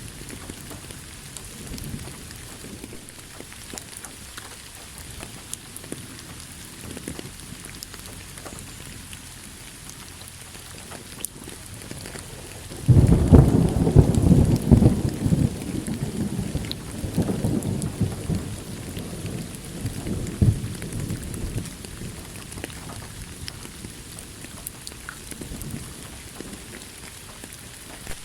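Steady rain falling and pattering, with a loud roll of thunder that breaks suddenly about halfway through and rumbles on in waves for several seconds before fading back under the rain.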